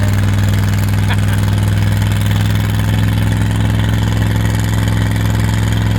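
Engine idling steadily with an even, low note that holds without revving.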